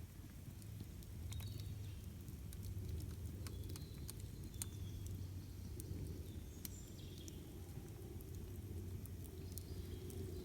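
Campfire burning, with scattered sharp crackles and pops of the burning wood over a low steady rumble, and a few short high chirps here and there.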